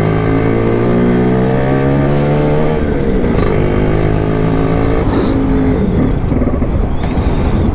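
Lambretta two-stroke scooter engine running under way. Its steady note breaks up briefly about three seconds in and wavers again near the end, which the rider likens to fuel starvation.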